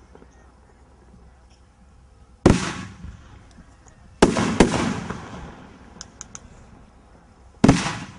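Brothers Star Chamber 500-gram multi-shot firework cake firing its shots: a sharp bang about two and a half seconds in, two more close together about four seconds in, and another near the end, each dying away over about half a second, with faint crackles in between.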